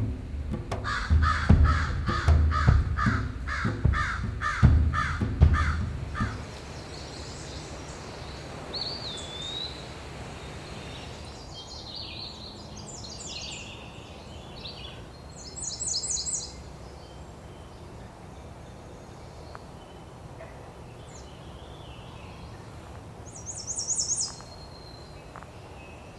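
A crow cawing repeatedly, about two harsh caws a second, over a low rumble, stopping about six seconds in. After that, small songbirds give high chirps, a rising whistle and short bright trills, twice loudest near the end.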